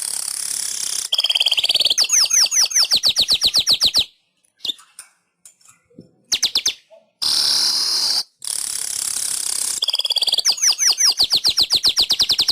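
Weaver bird (manyar) singing its song twice. Each phrase is a buzzy hiss that runs into a fast string of short sweeping notes, about eight a second, then breaks off.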